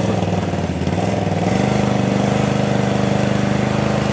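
Off-road vehicle engine running steadily under load, picking up a little about a second and a half in, as it tows a swamped ATV up out of a mud hole.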